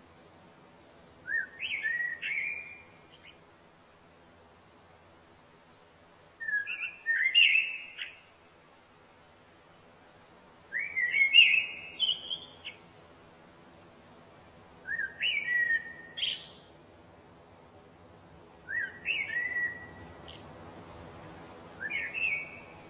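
A songbird singing short warbled phrases of quick rising and falling notes, six times at roughly four-second intervals, over a faint steady low hum.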